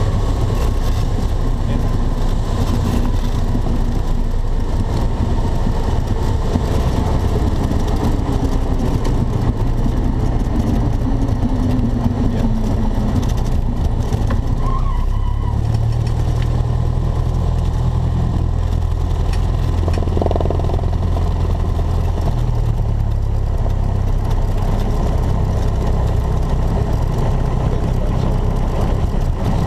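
Single-engine light aircraft's engine and propeller droning steadily, heard from inside the cockpit; the low drone grows louder about halfway through, then eases back.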